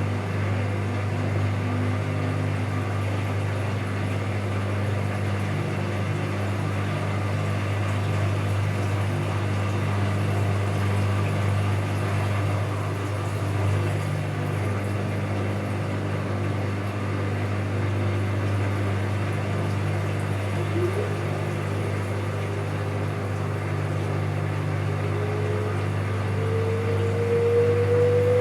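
Bauknecht Super Eco 7615 washing machine running with a steady low hum. Near the end a whine comes in and climbs steadily in pitch as the inverter motor speeds the drum up.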